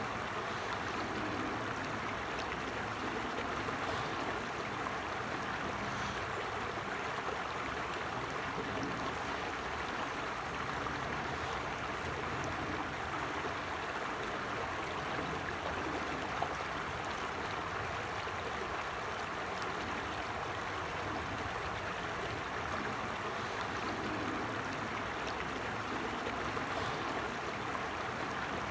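A small stream or creek running steadily over stones, a continuous babbling rush of water.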